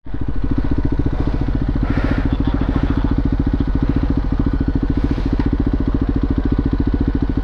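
KTM motorcycle engine running steadily with an even, pulsing exhaust beat.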